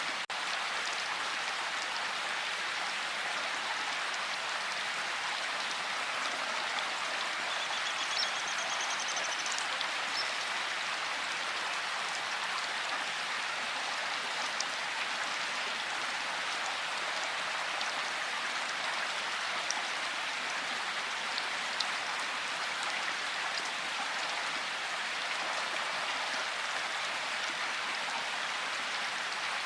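Steady rain falling, an even hiss with scattered louder drop ticks. A faint short trill sounds about eight seconds in.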